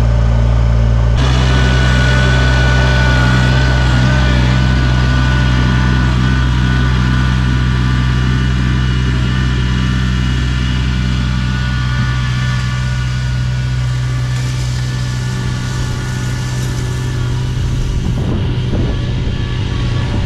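Engine of a ride-on snowblowing machine running steadily under load, with a steady high whine above it. The sound grows fuller and noisier about a second in.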